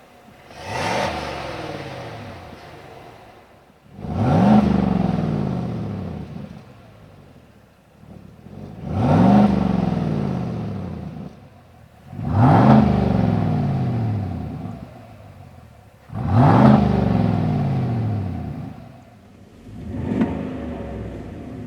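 A GM Silverado/Sierra 1500's 5.3L V8 exhaust being free-revved six times, each rev rising sharply and then falling slowly back to idle.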